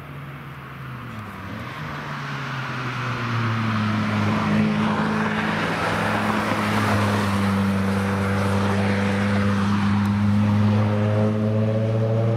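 Car engine approaching, growing louder over the first few seconds and then holding a steady note. Near the end the pitch starts to rise as it accelerates.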